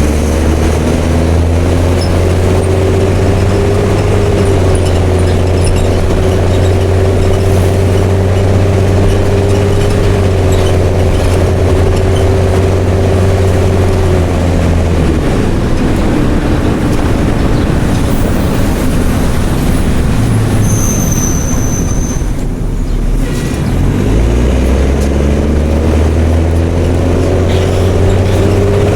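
Mercedes-Benz OM366LA turbocharged inline-six diesel of a bus, running through an open straight exhaust: it pulls steadily for about half the time, drops in pitch as it eases off, dips briefly, then rises in pitch again as it accelerates near the end. A short high hiss sounds about two-thirds of the way through.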